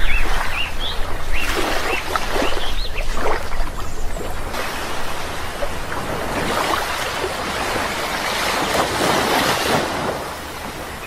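Rushing water, likely waves washing in, with a swell in the middle and a drop near the end, and a bird chirping several short notes in the first few seconds.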